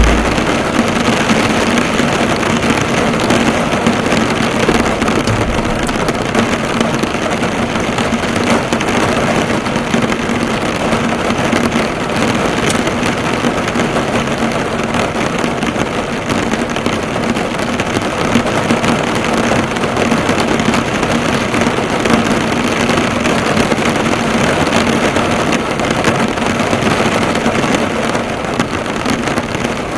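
Heavy rain drumming on a car, the drops bouncing off the hood, heard from inside the car as a steady dense patter. A faint steady low hum runs beneath it.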